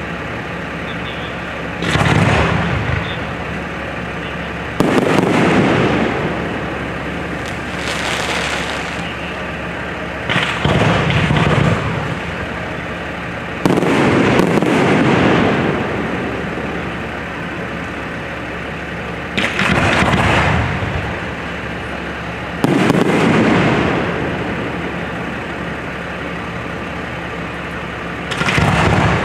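Aerial fireworks shells bursting overhead: about eight booms a few seconds apart, each trailing off over a second or two, over a steady background hiss.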